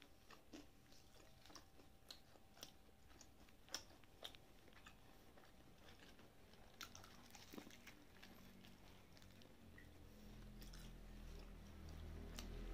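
Chewing a crispy breaded fried chicken cutlet (Taiwanese jipai) with the mouth closed: faint, irregular crunches and small clicks of the crust. A low hum builds in the last couple of seconds.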